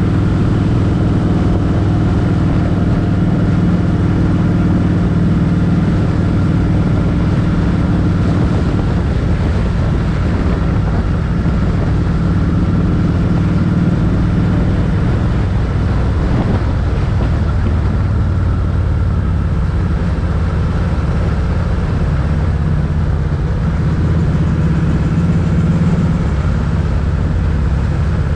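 Motorcycle engine running at road speed, with wind rushing over the microphone. The engine note drops about a third of the way in and rises a little near the end.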